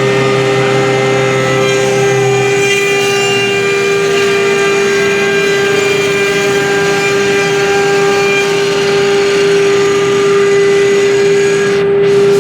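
CNC router spindle running at a steady speed: a loud, even machine whine with a lower hum underneath that drops out about two and a half seconds in.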